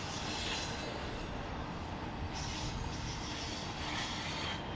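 Railroad cars rolling past on the track: a steady rumble of wheels on rail, with a higher-pitched wheel screech that swells and fades every second or two.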